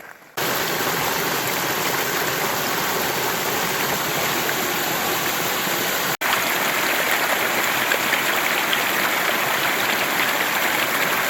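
Rushing river water: a steady, even rush of flowing current that starts abruptly just after the start and breaks off for an instant about six seconds in.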